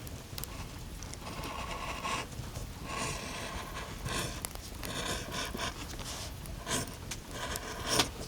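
A series of scratchy rubbing strokes, each lasting under a second, coming roughly once a second.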